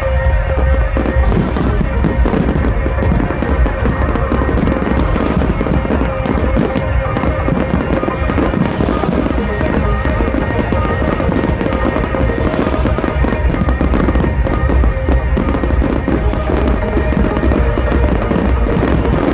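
Fireworks going off in a dense, continuous barrage of bangs and crackles over loud music with a heavy bass.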